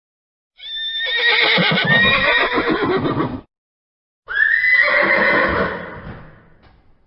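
Horse whinnying twice: a long quavering whinny, then after a short pause a second one that fades away.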